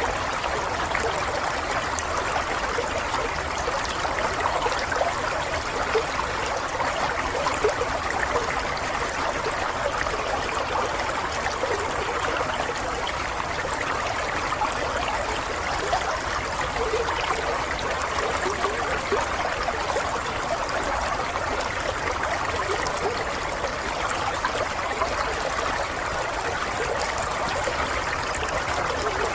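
Running water trickling and burbling steadily, like a small stream flowing over stones.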